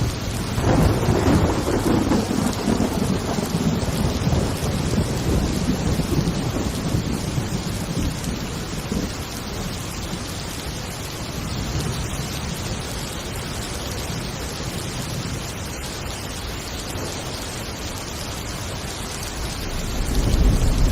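Thunderstorm: steady heavy rain with a roll of thunder that swells about a second in and rumbles away over several seconds, and another roll building near the end.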